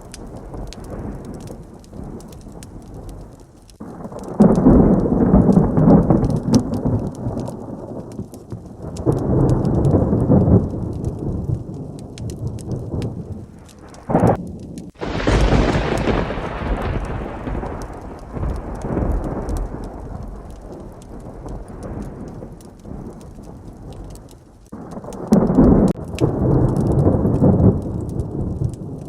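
Thunderstorm over steady heavy rain: several low rolls of thunder swell and fade, with a sharp, close thunderclap about halfway through that rumbles off.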